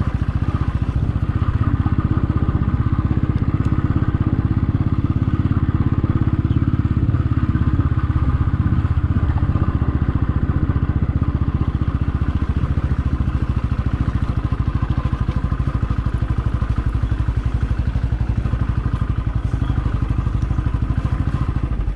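Motorcycle engine running steadily while riding, a rapid, even beat of firing pulses with no change in pace.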